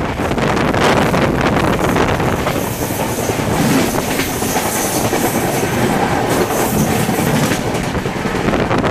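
Passenger train coach running at speed on the rails: a steady, loud rush of wheel and track noise with frequent clicks and clatter of the wheels over rail joints and points.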